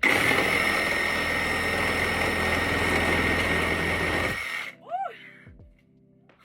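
Power drill running at speed as it bores through an RV's wall, starting abruptly and cutting off about four and a half seconds in. A brief pitched sound that rises and falls follows, with faint background music after.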